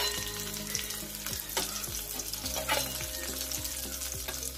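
Pomfret pieces frying in hot mustard oil in a metal kadai: a steady sizzle, with a few sharp clinks and scrapes of a metal spatula against the pan as the fried fish is lifted out.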